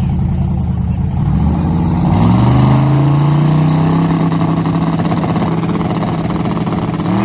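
Car engine running, revving up about two seconds in and holding at high revs, with another quick rise in pitch at the very end.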